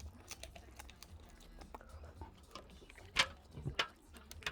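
Soft clicks and crackles of someone eating seafood, with one sharper click about three seconds in, over a low steady hum.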